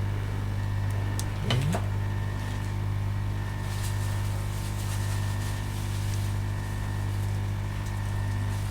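Steady low electrical hum from running bench equipment, with a brief rising sound about a second and a half in.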